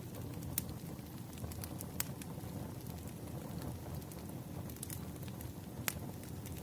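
Crackling wood fire: burning firewood with a steady low rumble and scattered sharp pops, the loudest about half a second, two seconds and six seconds in.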